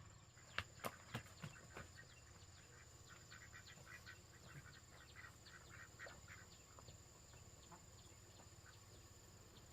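Faint chirping of birds or young fowl, a run of short high chirps repeated several times a second, after a few sharp clicks.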